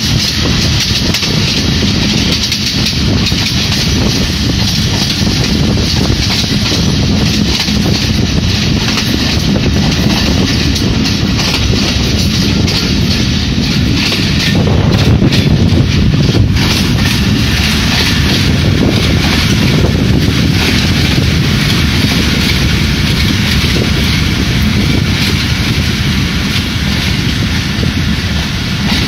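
Steady running noise of a passenger train: wheels rumbling and rattling over the rails. Another train passes on the adjacent track, and the noise swells about halfway through as its diesel locomotive goes by.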